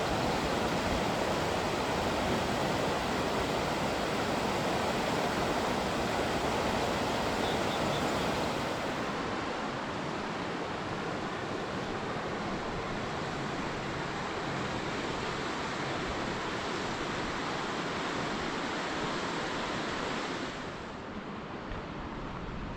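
Dungeness River rushing below, a steady hiss of flowing water; it gets quieter about twenty seconds in.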